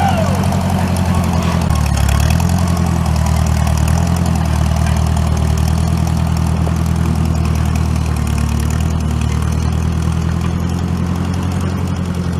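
A loader's engine running steadily while working at moving a heavy tree stump. Its note shifts briefly about two seconds in as the load changes.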